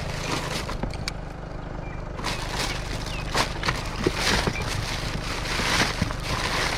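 Rustling and light knocking of items being handled and rummaged through in a kerbside pile of hard rubbish, denser from about two seconds in, over a low steady rumble.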